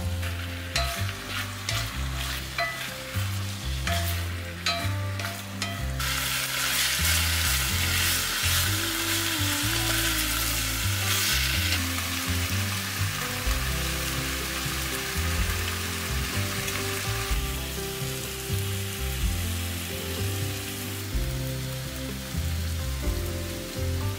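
Chicken, onion and carrot sizzling in an enamelled pot on a gas burner, with a wooden spatula knocking and scraping against the pot while stir-frying during the first several seconds. The sizzle turns dense and loud about six seconds in and eases somewhat later on.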